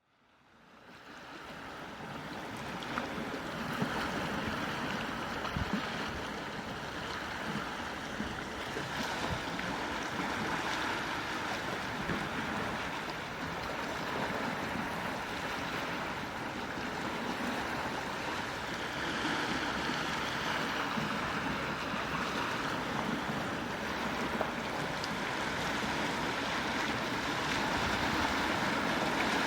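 Quiet sea waves washing on a shore: a steady, even rushing sound that fades in over the first couple of seconds.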